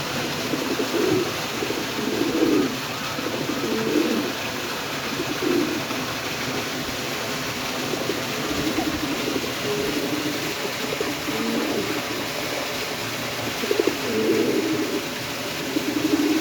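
Domestic fancy pigeons cooing, low warbling coos following one another without a break.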